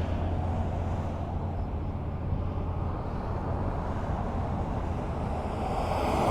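Highway traffic: a steady low rumble in a lull between passing vehicles. Near the end it grows louder as the next vehicle approaches.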